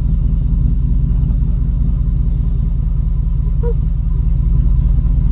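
A low, steady engine-like rumble with a fast, even pulse, as of a motor running at idle.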